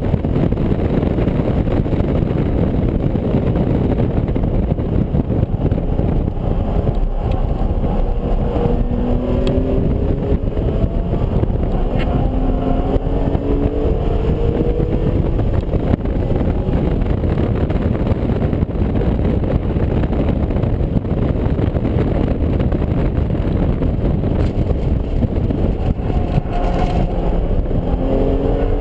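BMW Z4 M Coupe's straight-six engine heard from inside the cabin at track speed, under heavy road and wind noise. It pulls up through the gears, rising in steps about a third of the way in and rising again near the end.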